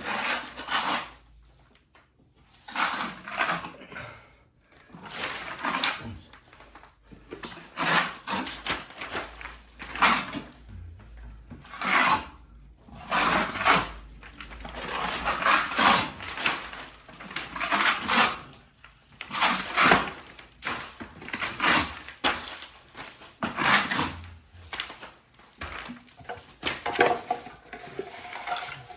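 Plastering knife or trowel scraping and spreading quick-setting joint compound (5-minute hot mud) over an old plaster wall, in irregular rasping strokes about one every second or two. The mud is setting up fast.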